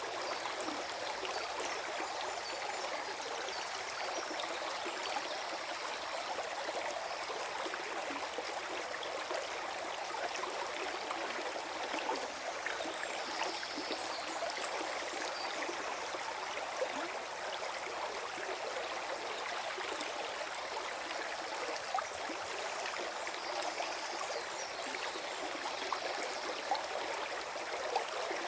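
Small forest stream flowing and gurgling over stones, a steady babble of water with many small splashes.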